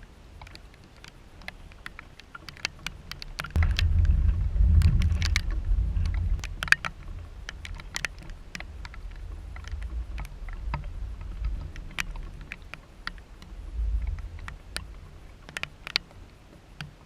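Thunder rumbling low and long during an electrical storm, swelling a few seconds in and again near the end. Over it come scattered sharp ticks of raindrops striking a hard surface.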